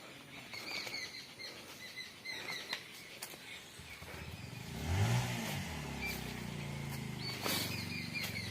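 An engine starts about halfway in, its pitch rising and falling once in a quick rev, then runs steadily. Faint scattered chirps come before it.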